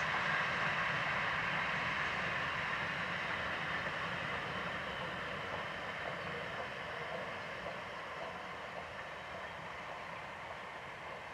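Train running past and away, a steady rumble of wheels on rail that fades gradually.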